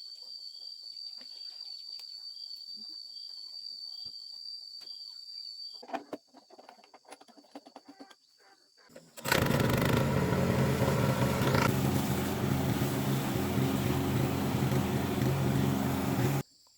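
A steady high insect buzz with scattered ticks, then some clicks and handling noise. From about nine seconds a water pump's small engine runs loud and steady, then stops abruptly near the end.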